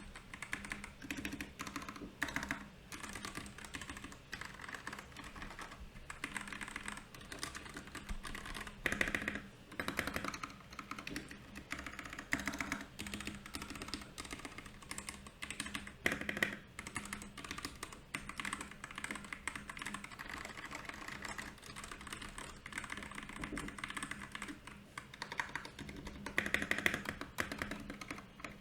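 Royal Kludge RK68 mechanical keyboard being typed on steadily, a dense run of key clicks and clacks with no pauses, with a few louder flurries of keystrokes.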